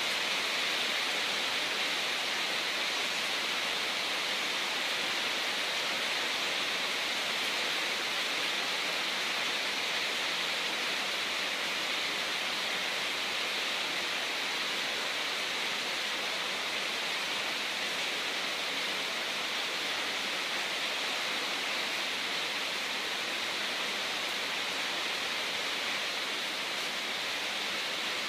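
Steady, even rushing hiss of water flowing in an aquarium, with no breaks or separate sounds.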